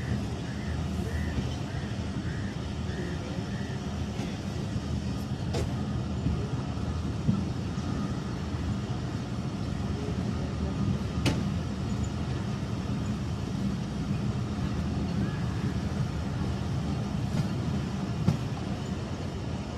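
Passenger train running along the track: a steady low rumble of the moving carriage, with two sharp clicks, one about six seconds in and one near the middle.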